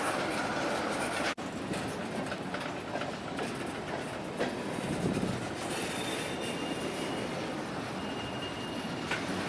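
A train's cars rolling past on steel rails with a steady rumble and clatter of wheels, and a thin, high wheel squeal in the second half.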